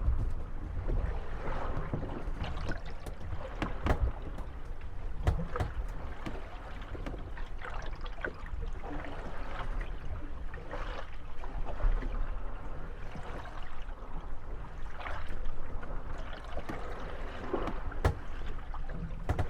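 Moored wooden gondolas rocking on waves, their hulls creaking and knocking irregularly against each other over a steady low wash of water.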